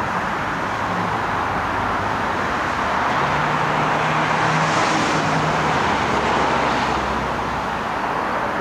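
Steady motor-vehicle noise: a continuous rushing hiss with a faint low engine hum that comes in for a few seconds midway.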